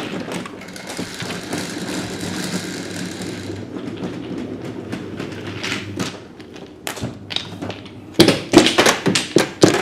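Mahjong tiles clacking and knocking together in quick, irregular clusters, sparse at first and loudest in the last two seconds, as the players sweep the tiles in after a won hand. A steady hiss runs underneath for the first few seconds and then cuts off.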